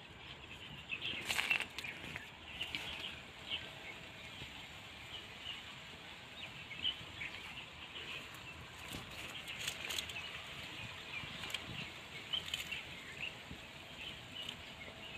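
Small birds chirping in short, scattered calls, with a few brief rustles of leaves and branches, clearest about a second and a half in.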